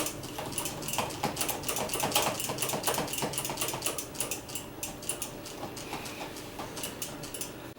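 Rapid, irregular crackling clicks from bleeding a motorcycle front brake: air and brake fluid spitting out of the open bleed nipple into the catch hose.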